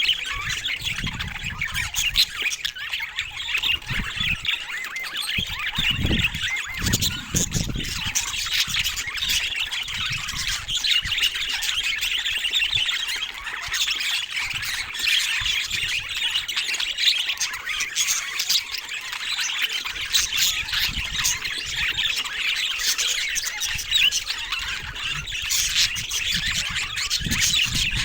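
A flock of budgerigars (budgies) chattering and squawking without pause, a dense mix of chirps and warbles, with a few low thumps about six seconds in.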